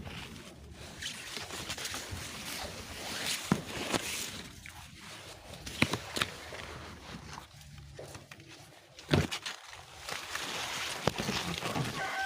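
Rustling and handling noise with a few sharp knocks or taps, over a steady outdoor hiss.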